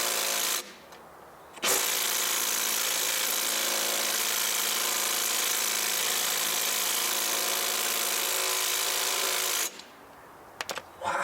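DeWalt cordless impact driver hammering on a lawnmower blade nut through a 16 mm socket: a short burst, then about eight seconds of continuous hammering. The nut does not come loose.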